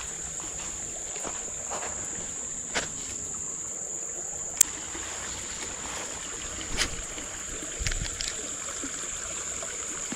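Creek ambience: a steady high-pitched insect buzz over a faint wash of running water, broken by a few short sharp clicks and taps.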